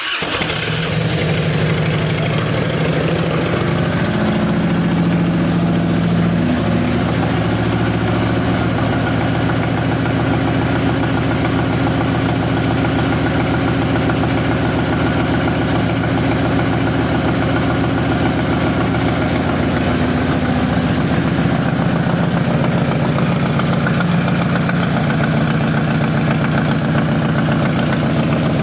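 Harley-Davidson 2000 FLHR Road King's Twin Cam 88 V-twin engine idling steadily.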